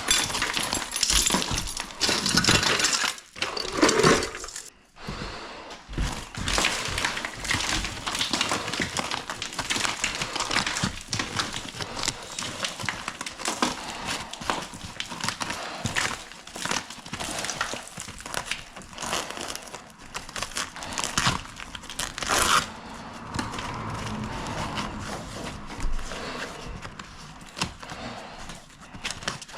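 Continuous crinkling, rustling and clattering of things being handled and moved, with a sharp crack or crash about 22 seconds in.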